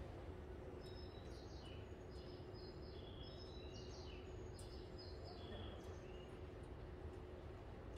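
A run of quick, high bird-like chirps, short notes repeated over about five seconds, heard over a steady low hum and rumble.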